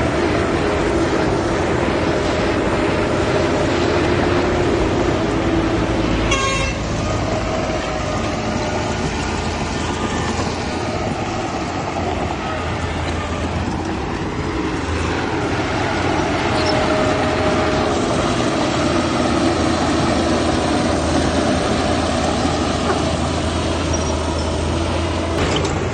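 Heavy diesel machinery working, with the engines running steadily and their pitch and loudness rising and falling gently.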